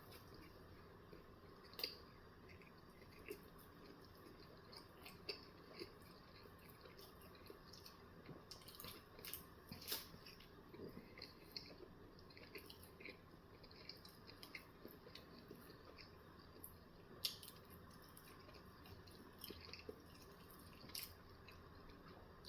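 Faint close-up chewing of a bagel breakfast sandwich: scattered small wet clicks and smacks, a few of them a little louder.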